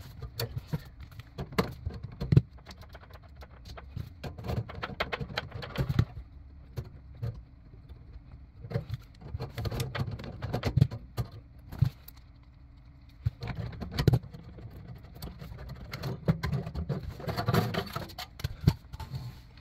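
Irregular metal clicks, clinks and knocks of hands and tools on fittings as the gas line and thermocouple line are disconnected and the burner assembly is pulled from a gas water heater, with a brief lull about two-thirds of the way through.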